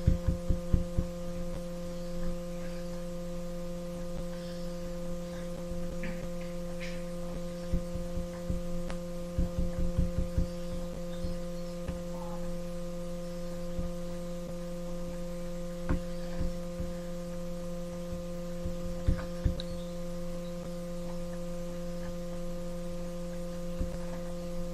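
Steady electrical mains hum with a few clear tones, with scattered clusters of soft low clicks and knocks now and then.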